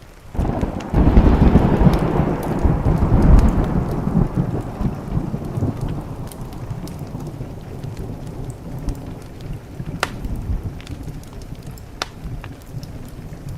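A thunderclap breaks about half a second in and rolls on as a deep rumble, loudest for the first few seconds and slowly dying away, over steady rain. A few sharp pops of the crackling wood fire come near the end.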